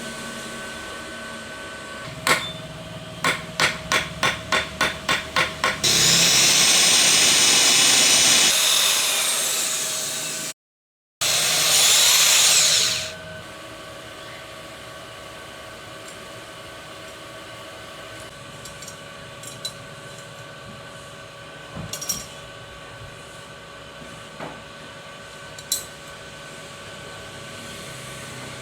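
Hand-tool work: a knock, then about eight even knocks at roughly three a second, followed by two loud hissing blasts of several seconds each. After them the work goes quieter, with a few light clicks.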